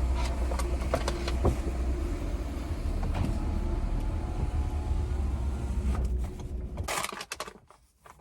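Car running, heard from inside the cabin as a steady low rumble with a few light clicks. The rumble stops about seven seconds in.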